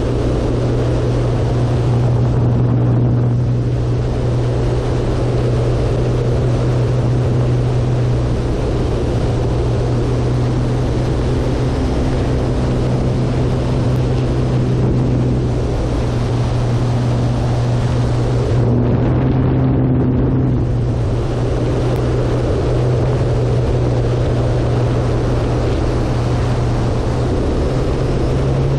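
Electric RC airplane's Hacker A100-10 motor and propeller in flight, a steady low drone, heard under heavy wind rush at a wing-mounted camera.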